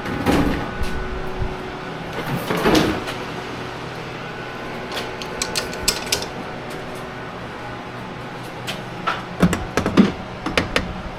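Scattered knocks and clicks of small hardware being handled and fitted, with a run of sharp clicks about five to six seconds in and louder knocks near the end.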